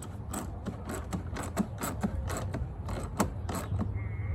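Hand ratchet wrench clicking in short runs as bolts on the alternator are turned, about a dozen sharp clicks over a low steady hum.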